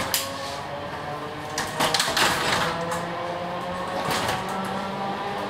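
Electric commuter train running on rails: its traction motors whine in several steady tones that slowly rise in pitch as the train gathers speed, with sharp wheel knocks on the track, a cluster of them about two seconds in and another near four seconds.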